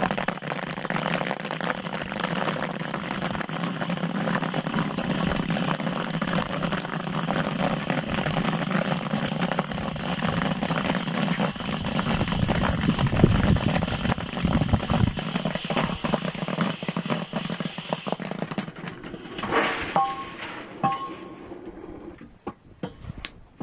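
Kettle corn popping in a custom-built kettle: a dense, steady crackle of popping kernels over a low hum. The popping thins out near the end, with a couple of short metallic rings about twenty seconds in.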